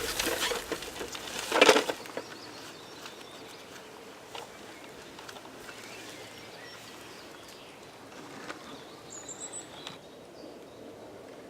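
Quiet outdoor ambience: a loud rustle or crunch about two seconds in, then faint scattered clicks and twig sounds, and a short high bird chirp near the end.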